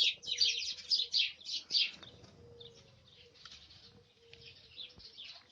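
A flock of small birds chirping rapidly and continuously, loud for about the first two seconds, then fainter and more scattered.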